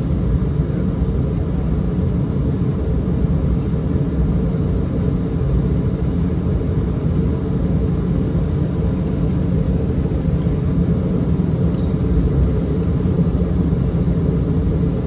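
Steady low rumble inside the cabin of an Embraer E190 airliner rolling on the ground after landing, its General Electric CF34 turbofans at idle.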